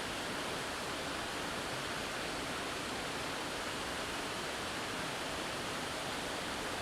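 Steady rushing of a double waterfall: an even hiss of falling and running water that does not change.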